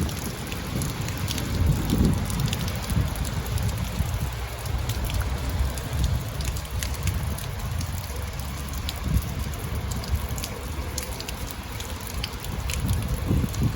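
Rain falling, with many separate drop ticks over a steady low rumble of wind on the microphone.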